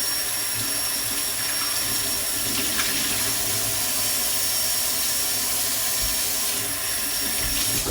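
Kitchen tap running steadily into the sink, a constant rushing of water that is shut off abruptly at the end.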